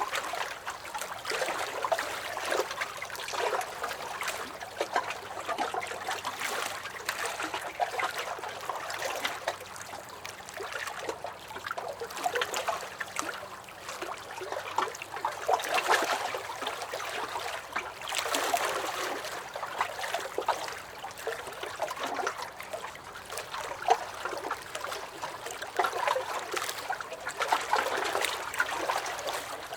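Small lake waves lapping and sloshing against a dock, a continuous run of irregular little splashes and gurgles that swells every few seconds.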